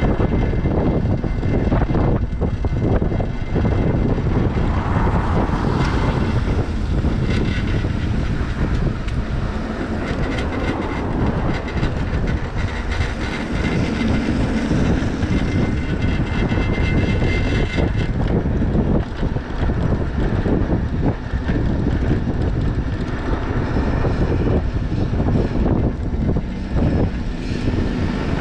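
Wind buffeting the microphone with road noise from a moving electric bike, a steady rumble.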